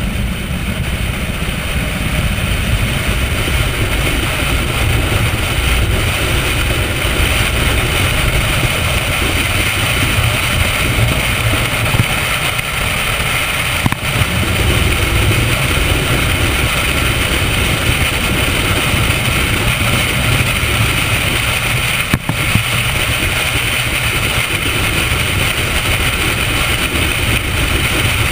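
Chevrolet Corvette V8 running steadily at moderate track speed, heard from a camera mounted on the car, with a steady rush of wind and road noise over it.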